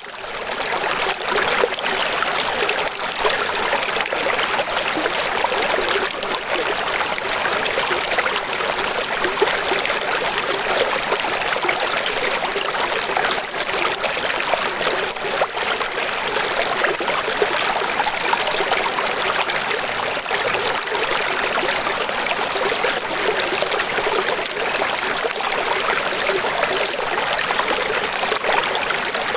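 Running water flowing and splashing steadily, a bright rushing sound with little bass, fading in at the very start.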